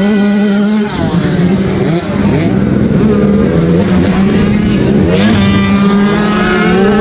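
Several small youth dirt bike engines running at once, revving up and down as the riders race past.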